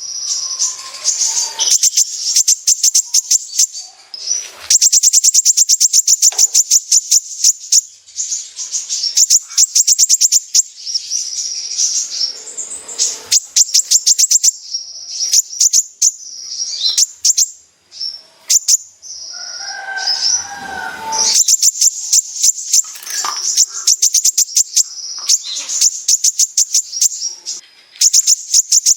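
Kolibri ninja sunbird singing in 'besetan' style: long, fast runs of sharp, high chips, broken by short pauses, with some lower warbled notes.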